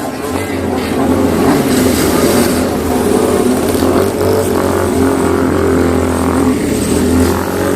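Old motorcycle engine running steadily, its exhaust loud and even.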